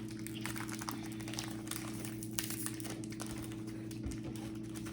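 Faint crinkling and small ticks of a snack wrapper being handled, over a steady low electrical hum.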